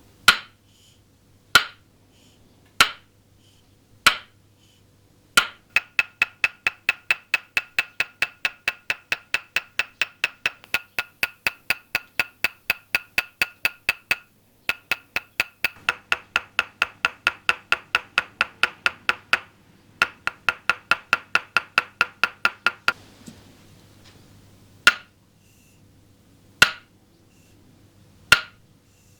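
Toksen massage: a wooden mallet tapping a wooden peg held against the body. Each strike is a hollow knock with a short ringing tone. It starts with single strikes about every second and a half, then runs of quick, even tapping at about four or five a second with two brief breaks, and near the end slows back to single strikes.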